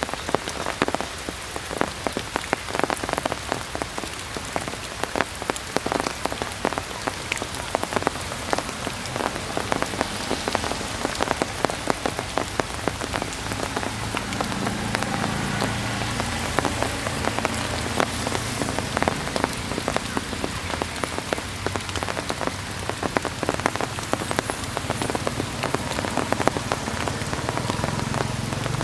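Heavy rain falling steadily, with dense drop impacts pattering on surfaces. A low steady rumble joins about halfway through.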